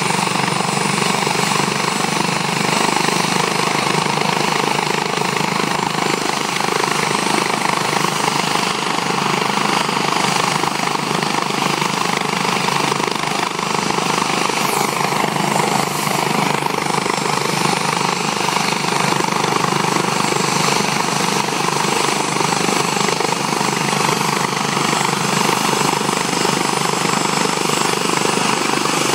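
National Guard helicopter running at a steady, loud level, its engine and rotor noise constant with no rise or fall.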